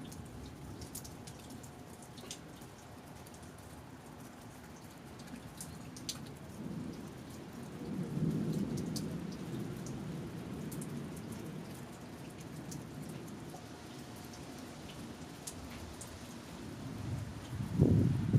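Steady rain falling, with scattered drops ticking on a nearby surface. A low rumble of thunder swells about seven seconds in and fades over a few seconds, and a louder, shorter low boom comes near the end.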